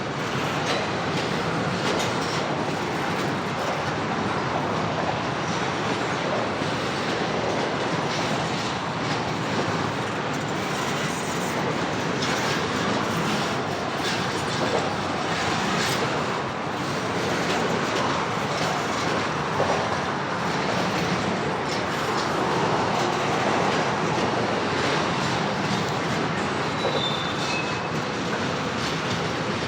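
CSX freight train's cars rolling past with a steady rumble and clatter of wheels on the rails. Near the end there is a brief high wheel squeal.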